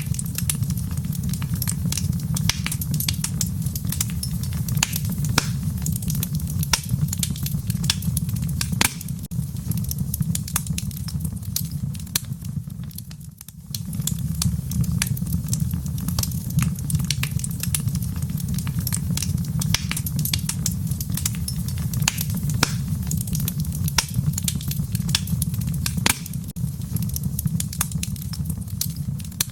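Wood fire crackling in a fireplace: frequent sharp pops and snaps over a steady low rumble of burning, which dips briefly about halfway through.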